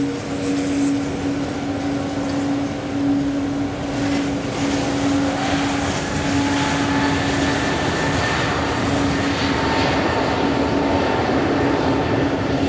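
Pratt & Whitney PW4074 turbofans of a Boeing 777-200 running under power. Their whine rises slowly in pitch as the roar grows about four seconds in, over a steady low hum.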